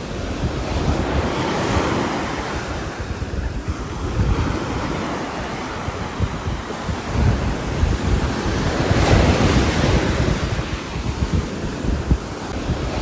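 Continuous rain noise on a roof, with a deep rumble underneath, swelling and easing every few seconds like wind-driven gusts.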